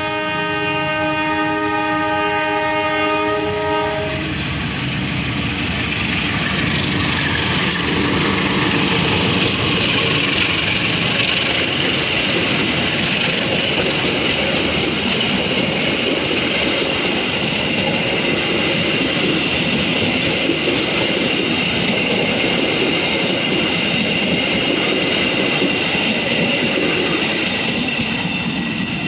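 A diesel locomotive sounds a long multi-tone horn chord that stops about four seconds in. Then the locomotive and a string of passenger coaches pass close by, their wheels running and clattering over the rails in a steady loud rumble that eases slightly as the last coach moves away near the end.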